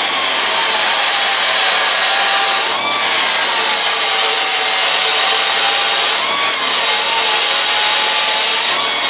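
Air-powered tool cutting and trimming a sheet-steel fender, a steady hiss with a whine whose pitch sags and recovers several times as the tool is loaded into the metal.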